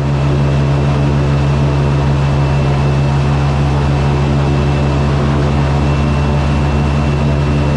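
Boat engine running steadily and loudly at an even speed, a deep engine note with a thin high whine above it.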